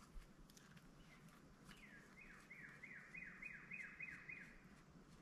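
Faint bird song: a run of about nine clear notes, each sliding down in pitch, about three a second, starting a couple of seconds in and stopping shortly before the end, with a few faint clicks.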